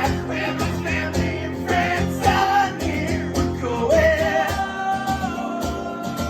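Live song: a man singing with strummed guitar, holding a long sung note over the last couple of seconds.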